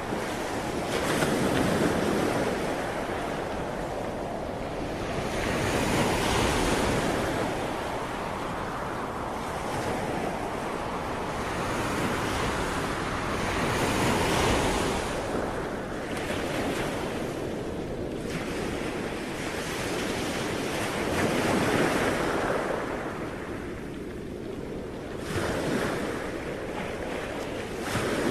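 Ocean waves breaking and washing on the shore, the surf swelling and easing every few seconds, with some wind.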